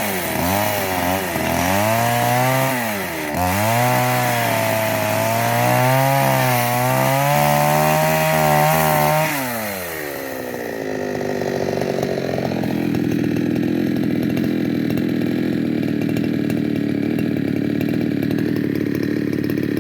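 Two-stroke chainsaw running at high revs while cutting wood, its pitch dipping and recovering repeatedly. About ten seconds in the revs fall away and it settles to a steady idle.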